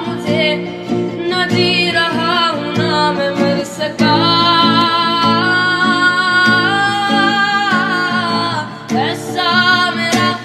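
Hindi song: a voice singing long, drawn-out wavering notes over guitar accompaniment.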